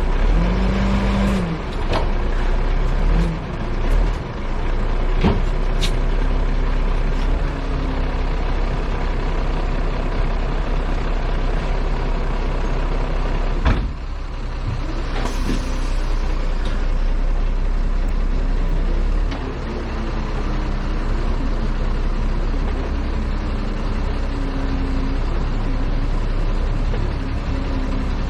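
Heavy truck's diesel engine running on the road, its pitch drifting slowly up and down, with a few sharp knocks and clicks along the way.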